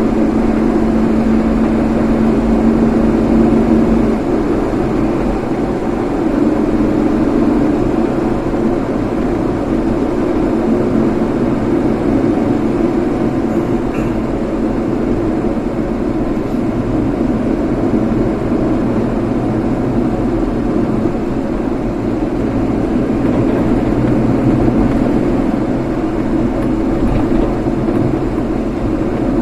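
A vehicle driving, with steady engine and road noise. A low hum in it stops about four seconds in.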